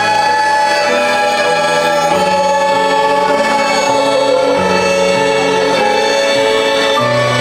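Live band music: slow held chords over bass notes that change about every two seconds, with a voice singing long notes above.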